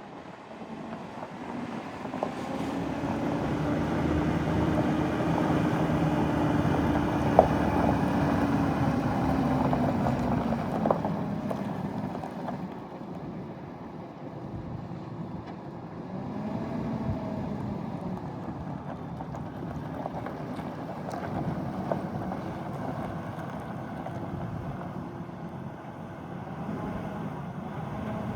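Pickup truck engine running, growing louder and slightly higher over the first few seconds, holding, then easing off about eleven seconds in, with a smaller swell later. A sharp click sounds near the loudest part, over wind noise on the microphone.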